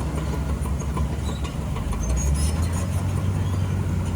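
Heavy diesel engine of construction machinery running steadily with a low drone, growing a little louder about two seconds in.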